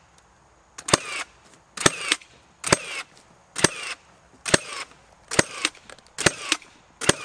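Nail gun firing eight times at an even pace, about one shot a second, each a sharp crack with a short ringing tail as nails are driven into coop framing lumber.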